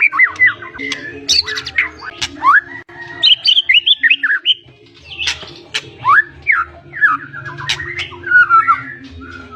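White-rumped shama (murai batu) singing a loud, varied song of quick rising and falling whistles and sharp chips, full of mimicked phrases, over a steady low hum.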